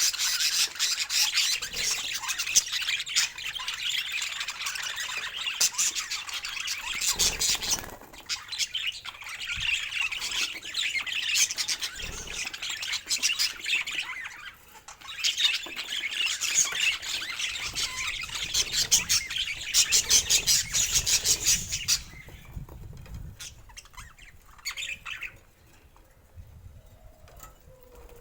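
Budgerigars chattering and squawking in a dense run of fast calls. The chatter breaks off about twenty-two seconds in, leaving only a few faint calls.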